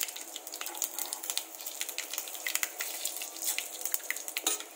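Whole spices (cinnamon, cardamom, cloves) sizzling in hot ghee and oil, a steady hiss with many small crackles and pops.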